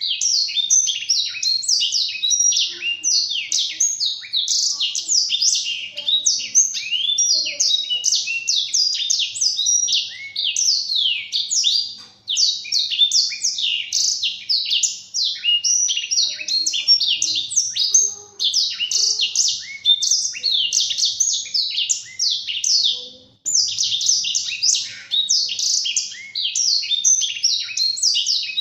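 Black-throated canary (blackthroat) singing a long, fast, continuous warble of quick, high chirps and downward-sliding notes, broken by a few short pauses.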